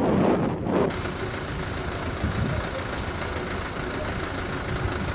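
Gusty wind noise on the microphone for about the first second, then a motor vehicle's engine running steadily as an even hum with faint constant tones.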